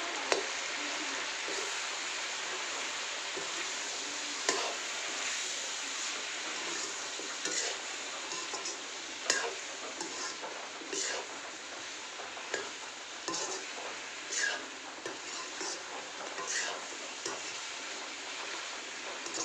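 Chicken and potato pieces sizzling in a metal kadai. A spatula stirs and scrapes through them, with a sharp clack against the pan every second or two.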